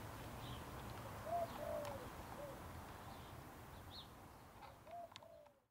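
Birds calling outdoors: several short, low arched calls and a few faint higher chirps over quiet background noise, cut off suddenly near the end.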